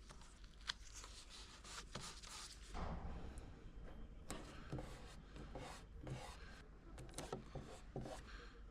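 Faint rubbing and handling noises with scattered small clicks: tape being laid and pressed down around bore holes on a wooden dresser.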